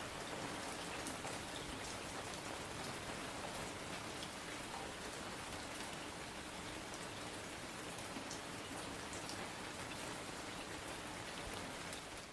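Steady rain falling, an even hiss with many small drop ticks, beginning to fade out at the very end.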